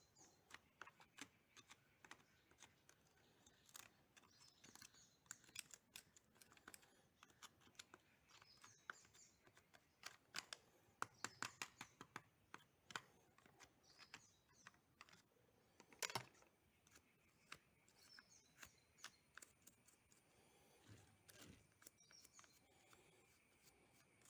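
Flat-blade screwdriver scraping and picking at the corners and edges of a motorcycle's lead-acid battery to clear out dirt: irregular small clicks and scratches, with a sharper tap about 16 seconds in.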